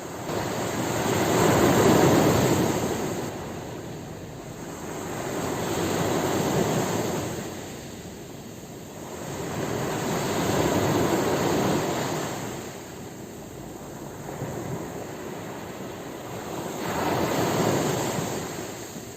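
Ocean waves breaking: four slow surges of rushing noise, one every four to five seconds, each swelling and fading away, the first the loudest.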